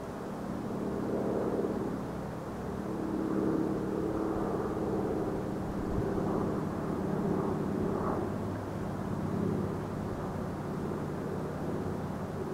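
Rhaetian Railway Capricorn electric multiple units running by with a steady hum of several held tones that swells and eases slightly.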